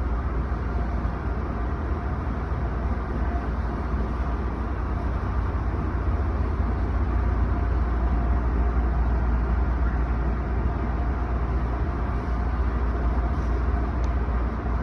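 Automatic car wash running: a steady rumble with a constant hiss of spraying water and machinery.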